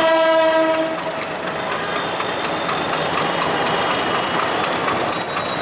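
A train horn sounds once, a steady tone lasting about a second, over the constant running noise of a departing passenger train. Faint high squeals come near the end.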